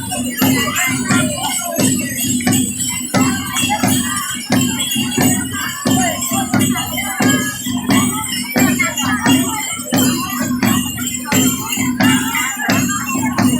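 Congada music: drums beating a steady rhythm with jingling tambourines and shakers over it.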